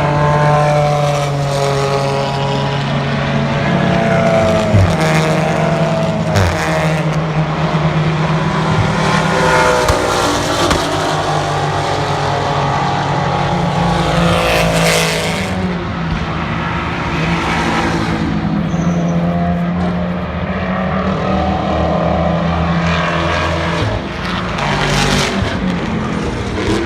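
Sports-racing car engines running and passing at a road course, their pitch rising and falling as the cars accelerate, lift and shift, over a steady low engine drone.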